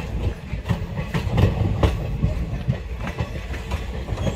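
Indian Railways passenger coach running along the track: wheels clattering and knocking irregularly over a steady low rumble, heard from the coach's open doorway.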